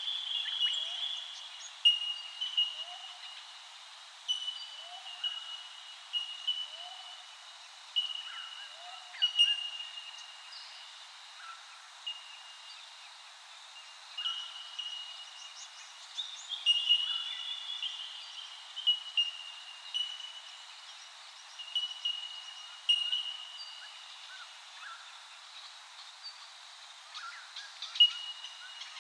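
Wild birds calling in a chorus. Many short, clear high notes sound at nearly the same pitch, repeating and overlapping throughout, with scattered quieter chirps in between.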